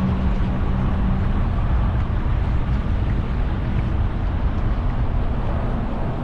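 Motorboat running steadily on the water, a dense low rumble with wind rushing over the microphone; a steady hum in it fades away about a second in.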